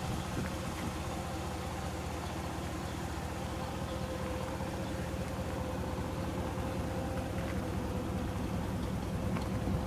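A 1962 Chevrolet Impala's 283 V8 idling steadily after a cold start.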